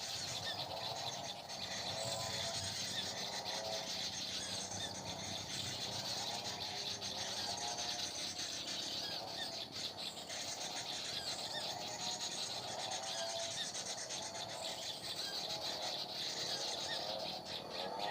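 Small birds calling over and over, a steady stream of short repeated chirps and call phrases.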